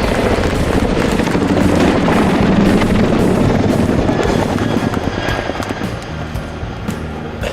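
Boeing Chinook HC2's tandem rotors beating with a rapid blade slap and a deep steady drone, fading somewhat after about five seconds as the helicopter draws away.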